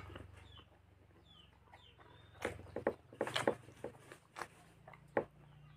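Close-up eating sounds of a person eating rice and curry by hand: a run of short, wet lip smacks and chewing clicks in the second half. Faint short chirps sound in the background before that.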